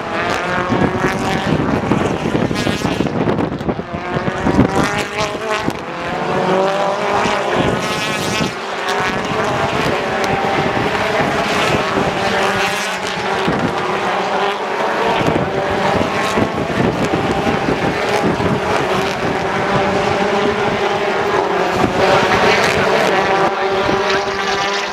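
A pack of British Touring Car Championship cars racing, several engines heard at once throughout. Their pitch climbs through the gears and drops at each shift.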